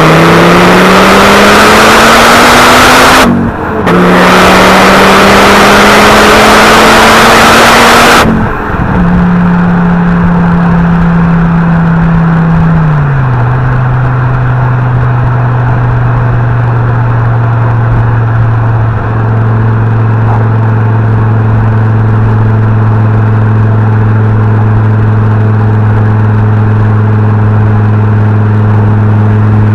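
Fiat Coupe 20V Turbo's turbocharged inline five-cylinder engine and exhaust accelerating hard, with rising engine note and rushing noise, through a brief gear change. After about eight seconds it lifts off and settles to a steady cruising note.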